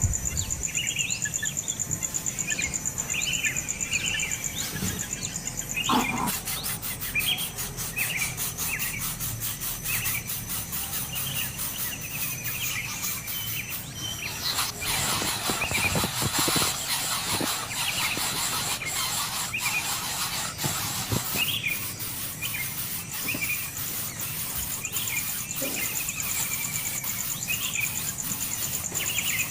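Birds chirping with many short, repeated calls, over a steady high insect buzz and fast ticking.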